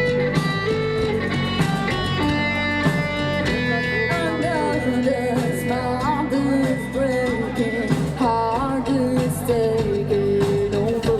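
Live band music led by guitar, with a melody line that bends and slides in pitch over a steady bass and rhythm backing.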